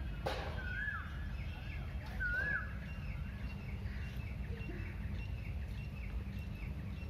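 Outdoor ambience over a steady low rumble: a bird repeats a short rising-and-falling whistle about every second and a half, then gives a run of quicker, higher chirps. A single click comes just after the start.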